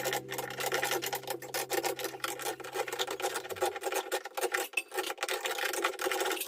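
Fast, irregular rasping scrapes in many short strokes, like hand work on a hard part, over a low held tone that stops about three and a half seconds in.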